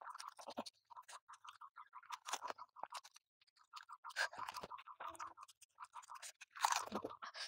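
Crisp pani puri shells being cracked and chewed close to the microphone: a close run of small crunches and crackles with wet mouth sounds, a little louder near the end.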